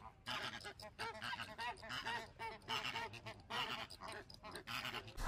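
Domestic waterfowl (geese or ducks) calling: a run of short, nasal honking calls repeated about twice a second.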